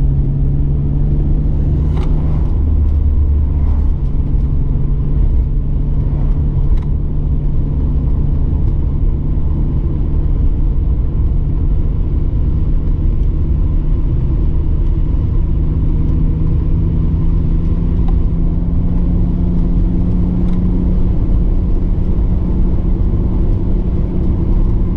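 BMW E34 525i's straight-six engine and road noise heard from inside the cabin while cruising. The engine note is steady, then climbs slowly in pitch through the second half.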